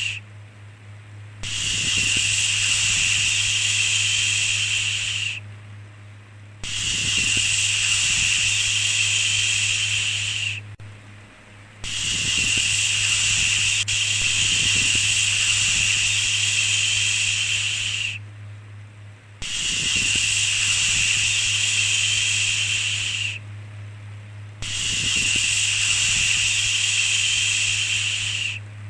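A drawn-out human-style 'shhh' shushing sound, repeated: five long hissing shushes of about four seconds each, one stretching to about six, with a pause of about a second between them. A faint steady low hum runs underneath.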